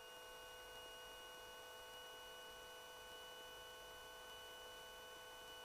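Near silence: a faint, steady electrical hum made of several tones, with light hiss.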